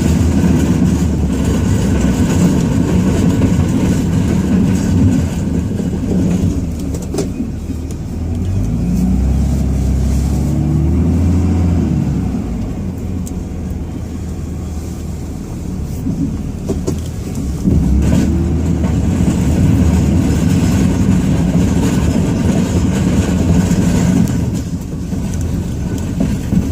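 Ram 2500's inline-six Cummins turbo diesel engine, heard from inside the cab, revving up and easing off repeatedly while plowing. It is quieter for a few seconds mid-way, and there are a couple of brief knocks.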